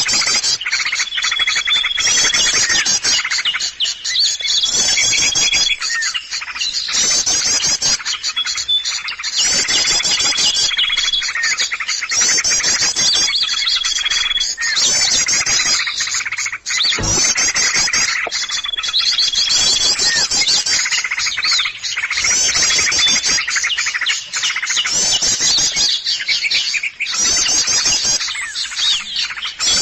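A chorus of many small songbirds chattering at once, in a bird-lure recording for attracting small wild birds: dense overlapping high chirps and fast trills in repeated bursts every second or two. A clear whistle held for about a second recurs several times.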